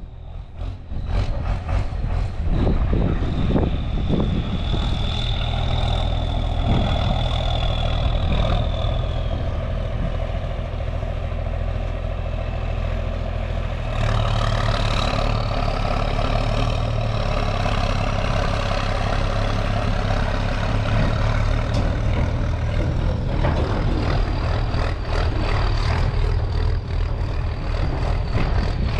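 A heavy farm engine running steadily. It changes note and grows louder about 14 seconds in.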